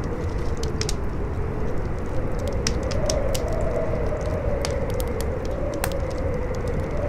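Howling wind, a wavering whistle that slowly rises and falls over a steady low rush, with a crackling fire giving frequent sharp pops and crackles.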